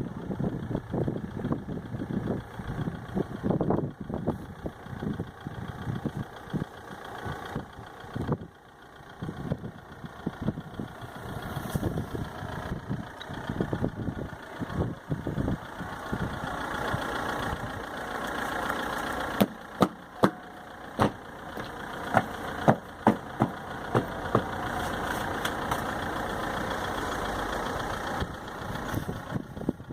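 Blizzard wind buffeting the microphone in irregular gusts, settling into a steadier rush about halfway through, with a handful of sharp clicks in the middle.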